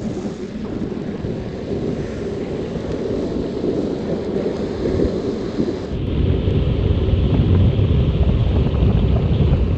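Wind buffeting the microphone while on the move, a steady rumbling rush that grows heavier and deeper about six seconds in.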